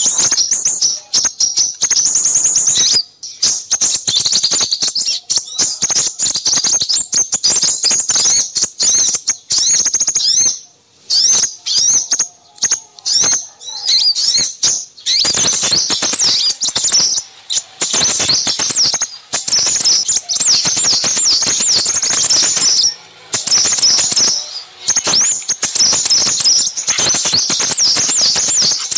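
Excited, rapid chirping and twittering of small songbirds, a busy chorus of high, quick notes with brief pauses, played as a lure call to draw in crimson sunbirds.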